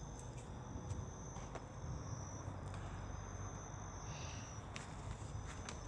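Crickets trilling: a thin, high, steady trill that breaks off briefly a couple of times, over a faint low background rumble and a few soft clicks.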